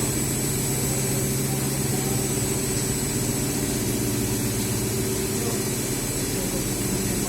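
Steady machine hum with several constant low tones and a faint high whine, unchanging in level throughout.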